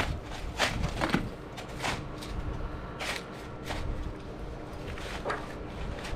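Snow crunching in a series of irregular sharp crunches, roughly one every half second to second.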